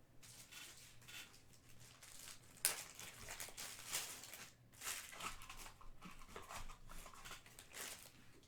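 Plastic wrapping crinkling and tearing as a sealed box of trading cards is opened. There are irregular rustles, with one sharper rip a little under three seconds in.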